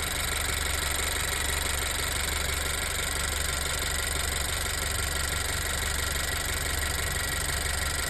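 Honda CR-V's 1.5-litre L15 EarthDreams turbo four-cylinder engine running steadily at an even level. The owner hears no valve ticking and credits the Motorkote and Marvel Mystery Oil in its oil.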